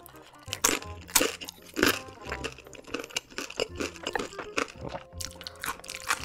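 Crisp, crunchy chewing of a pan-fried dumpling, with sharp crunches roughly every half second in the first couple of seconds and softer chewing after, over background music.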